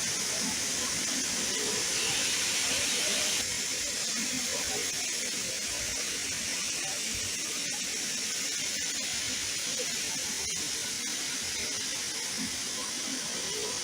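Steady rushing noise of a waterfall, dropping slightly in level and shifting in tone about three and a half seconds in.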